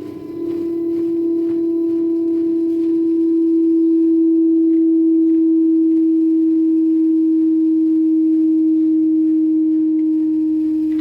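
Daewoo direct-drive inverter front-load washer in its spin cycle giving off a loud, steady humming whine, its pitch sagging slightly toward the end, with faint ticks. The noise is not from the bearings: the technician traces it to a faulty Hall sensor on the motor stator.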